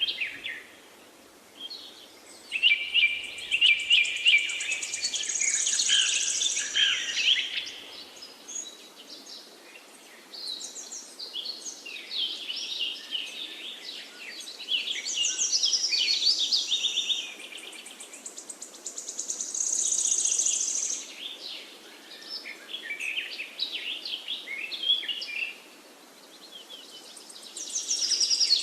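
Wild birds singing: bursts of rapid chirps and trills come and go in phrases of a few seconds with short lulls between, over a faint steady background hiss.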